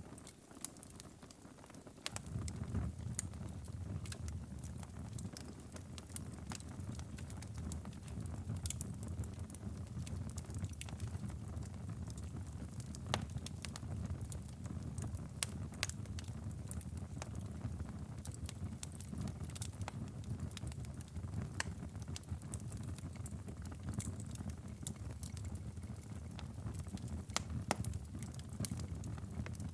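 Wood fire crackling and popping in a fireplace, with many sharp irregular snaps over a steady low rumble. The rumble is absent for about the first two seconds, then comes in and holds.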